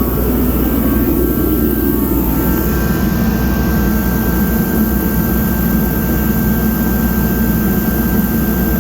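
DeWalt DXH140KTH kerosene forced-air torpedo heater running steadily, just switched on by its thermostat after the room dropped a few degrees below the set point: a loud, even rush of fan and burner over a low hum. A faint whine fades out in the first couple of seconds.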